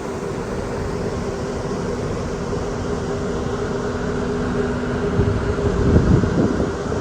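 Steady drone of a ship's machinery on an open deck, with two hums; the lower hum cuts out about five seconds in. Wind buffets the microphone, with a stronger gust about six seconds in.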